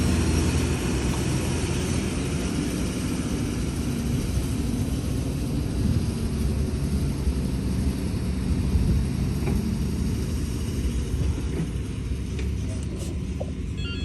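Heavy diesel engine of earth-moving machinery running steadily, with no clear change in speed.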